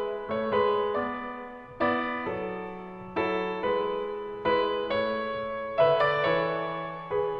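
Background piano music: slow, gentle piano notes and chords, each struck and left to fade before the next.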